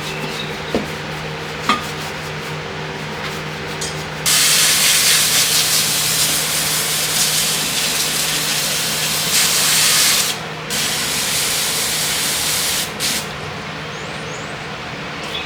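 Pressurised spray hissing in two long bursts, the first about six seconds and the second shorter, over a steady low hum, with two light clicks just before.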